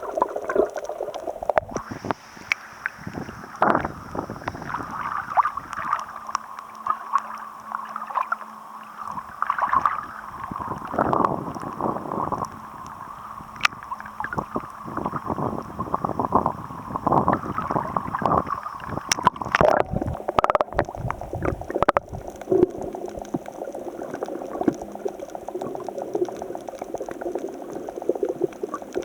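Sea water surging and gurgling among shoreline rocks in the swell ahead of a typhoon, broken by many short splashes and knocks.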